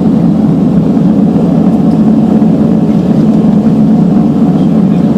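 Steady, loud drone of a turboprop airliner's engines heard inside the passenger cabin.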